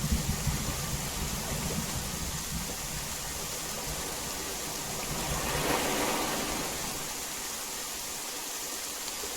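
Heavy rain falling as a steady hiss, with a low rumble fading out over the first several seconds and a slight swell about two-thirds of the way through.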